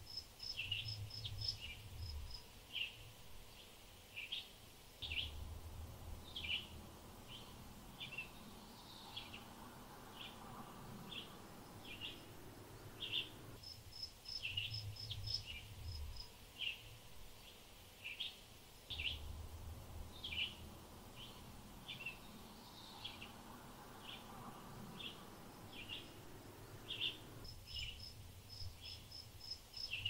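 Small birds chirping in short, quick calls, with runs of higher rapid pips mixed in and a faint low rumble that comes and goes. The same stretch of birdsong repeats about every fourteen seconds, as from a looped ambience track.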